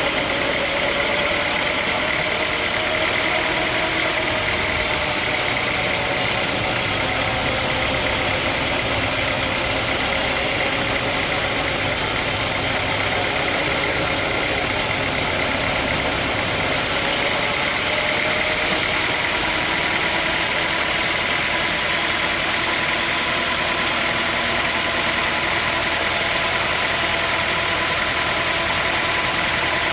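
An engine running steadily at a constant speed, with a faint tone that wavers slightly in pitch.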